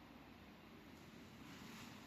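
Near silence: faint room tone with a low hum, and a soft hiss that grows slightly near the end.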